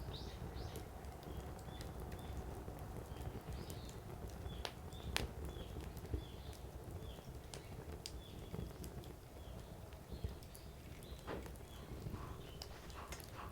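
Wood fire burning, firewood crackling with scattered sharp pops over a steady low rumble of flame; the loudest pops come about five and six seconds in.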